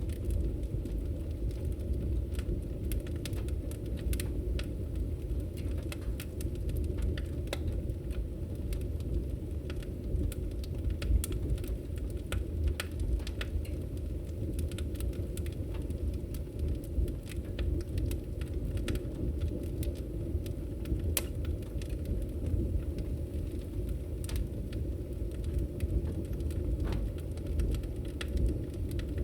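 Wood fire in a fireplace crackling: a steady low rumble of the burning with scattered sharp pops and snaps at irregular moments.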